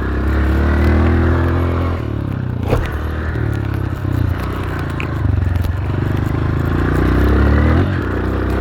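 Dirt bike engine running hard under throttle, its pitch climbing twice and falling back, with a sharp crack about three seconds in.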